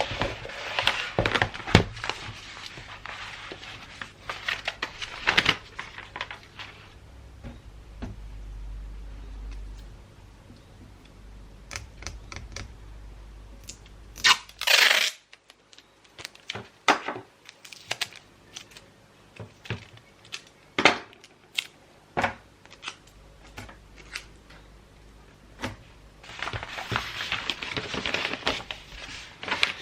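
Close-up gift-wrapping sounds: wrapping paper rustling and crinkling at the start and near the end, with many small sharp clicks and taps in between and one short, loud rustle about halfway through.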